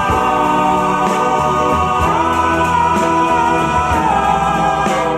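Doo-wop vocal group singing held harmony chords in the opening of a slow ballad record, moving to a new chord about two seconds in and again near the end.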